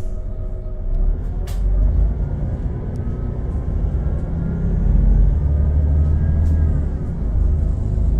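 Volvo B12BLE bus's 12-litre straight-six diesel running with a heavy low rumble and a whine from the drivetrain that rises, holds, then falls about two-thirds through. A short hiss of air about a second and a half in.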